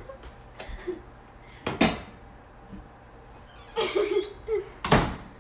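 Microwave oven door clunking twice: once about two seconds in and again, a little louder, about five seconds in, as it is opened and shut.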